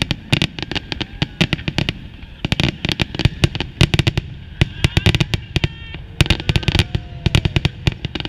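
Aerial fireworks shells bursting overhead: rapid, sharp bangs and crackles, many a second, coming in clusters with short gaps.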